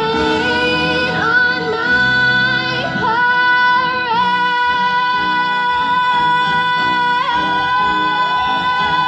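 A woman singing a show tune over musical accompaniment. She holds one long high note with vibrato through the second half.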